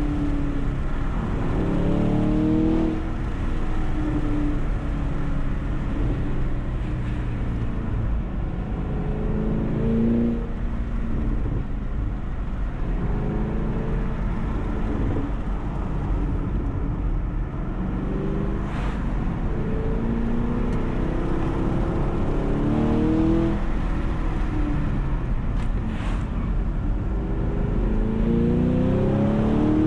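A car engine accelerating hard several times, its pitch climbing on each pull and falling back in between, over a steady low rumble.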